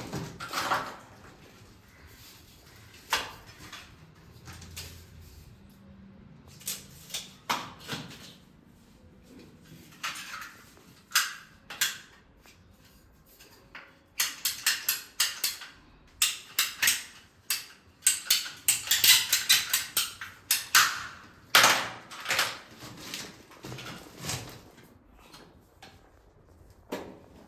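A short length of plastic water pipe being cut by hand: scattered knocks and clicks of handling, then two runs of quick cutting strokes, several a second, in the second half.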